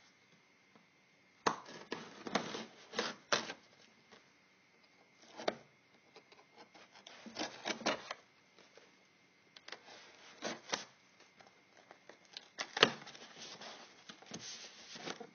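A kitchen knife cutting and working open a cardboard box: irregular bursts of scraping and sharp clicks separated by short pauses, the sharpest click about three-quarters of the way through.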